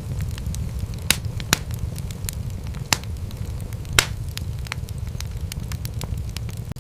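Wood fire crackling over a steady low rumble, with scattered sharp pops; the loudest comes about four seconds in.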